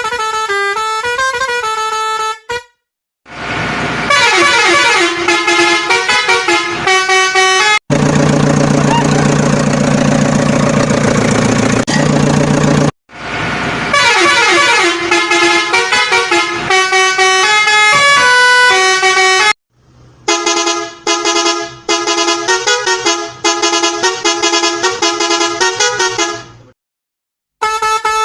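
A string of separate vehicle-horn sound effects, several playing short tunes in pitched honks, divided by brief silences. A long, steady horn blast comes about a third of the way in.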